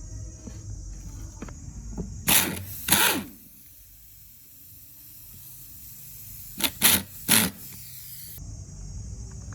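Short bursts of hissing spray: two about two and a half to three seconds in, then three quicker ones near seven seconds.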